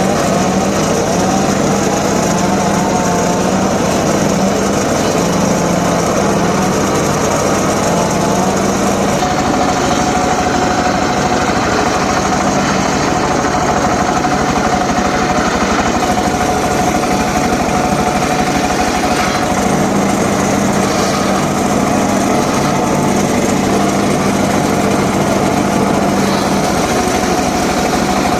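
Homemade engine-driven circular saw running steadily. A steady whine joins about nine seconds in.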